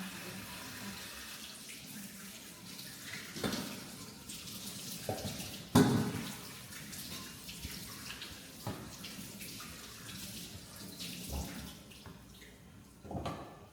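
Water running from a tap into a sink, with a few knocks and clatters of things being handled in it, the loudest about six seconds in.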